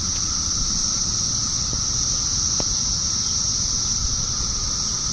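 Cicadas singing: a steady, high-pitched buzzing drone without breaks, over a low rumble.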